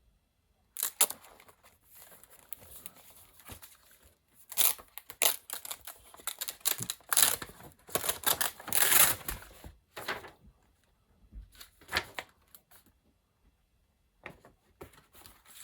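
Paper sheets and drawings being handled and turned over, with irregular bursts of rustling and crinkling that are busiest in the middle.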